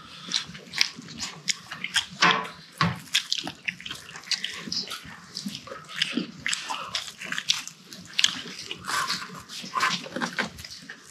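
Close-up chewing and wet lip smacking of people eating spicy pork and kimchi stir-fry with rice, a quick irregular run of small clicks and smacks.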